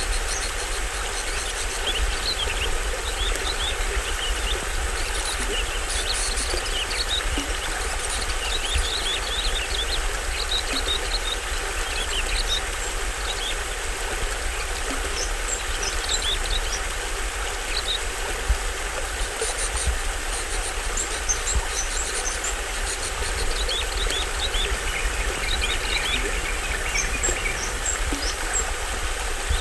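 Water from a small waterfall on a stream rushing steadily, with tropical forest birds giving short chirps and trills over it throughout.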